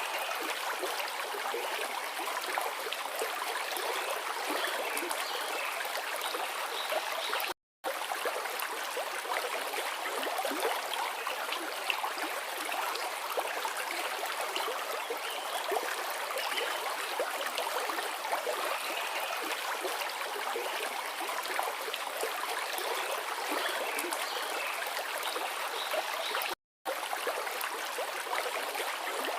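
Forest river flowing over rocks, a steady rushing and babbling of water. The sound cuts out completely for a split second twice.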